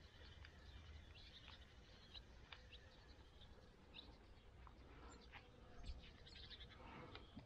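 Faint birdsong: scattered short chirps and calls from small birds, over a low steady rumble.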